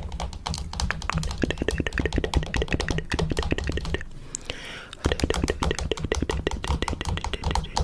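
Fingernails tapping quickly on a camera: a rapid run of crisp clicks, about eight to ten a second, with a short pause about four seconds in.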